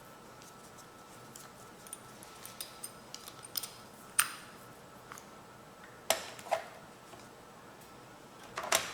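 Allen keys clinking as they are handled and tried in a bolt head: a scatter of light metal ticks, then a few sharper clinks, about four seconds in, twice around six seconds and once near the end.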